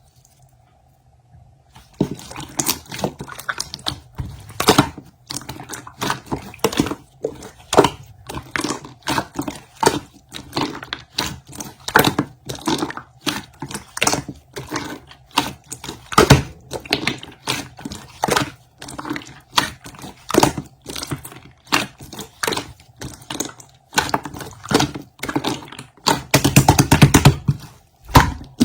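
Dense, irregular crunching and clicking, several sharp clicks a second, like something being chewed or crushed. It starts after about two seconds of near quiet and thickens into a rapid cluster near the end.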